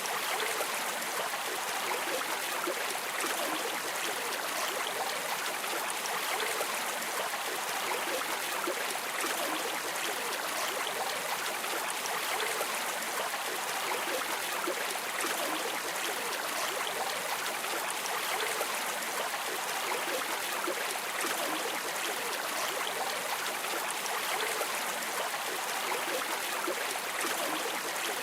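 Flowing water of a stream or river, a steady, even rush without pauses.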